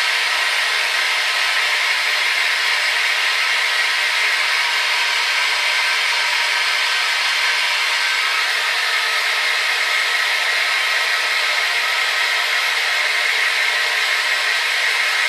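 Hair dryer running steadily: a constant rushing blow of air with a faint whine from the motor and fan, strongest in the upper-middle pitch range, with no change.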